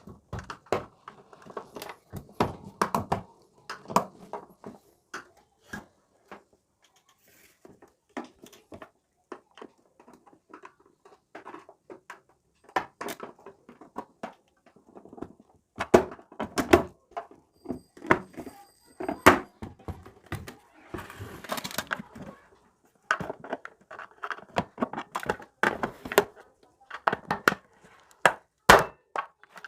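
Hands fitting the parts of an electric water heater (geyser) into its outer casing during assembly, with scattered knocks, clicks and rattles of the parts against the case.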